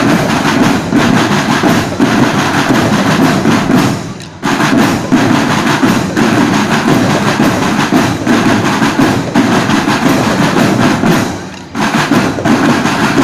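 A school drum band's marching drums playing a loud, fast percussion rhythm. The drumming breaks off briefly twice: about four seconds in and again near the end.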